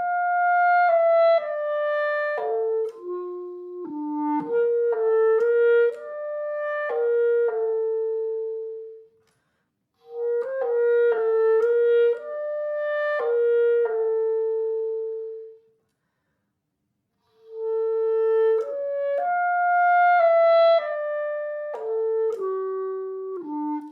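Unaccompanied solo woodwind melody, one line of notes played in three phrases with two short pauses, about 9 and 16 seconds in; the last phrase steps downward near the end.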